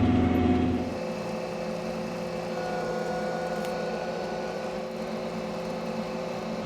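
Engine of heavy machinery running at a steady speed. It is louder for about the first second, then drops to a quieter, even drone.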